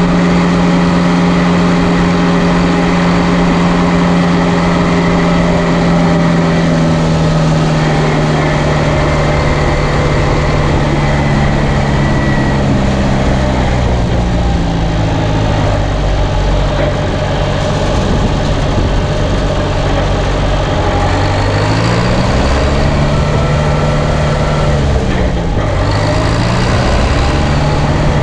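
Straight-piped John Deere 2030 tractor engine running loud. Its pitch holds steady at first, sinks gradually from about a quarter of the way in, then rises, drops and rises again near the end as the engine speed changes.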